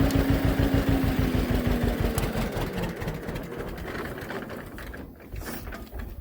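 Tractor engine idling with an even chug, about eight or nine pulses a second, dying down steadily over the last few seconds as it shuts off.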